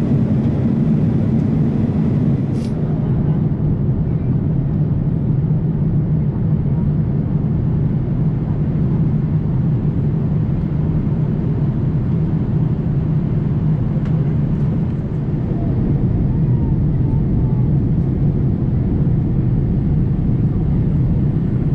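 Steady in-flight cabin noise of a Boeing 787-8 airliner: a constant low rumble of airflow and engines heard from inside the cabin, on approach.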